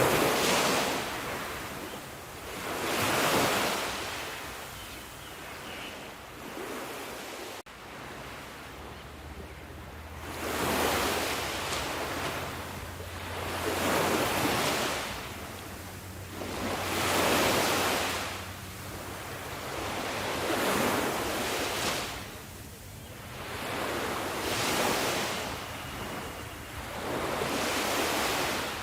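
Ocean waves washing in, in regular surges about every three to four seconds, each swelling and then falling back to a softer hiss.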